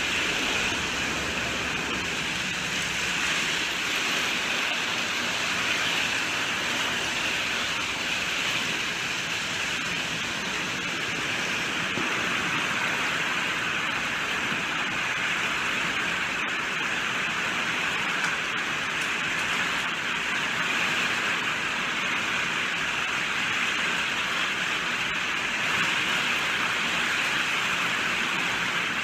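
Rain falling steadily: a dense, even hiss of many drops with no thunder or single hits standing out.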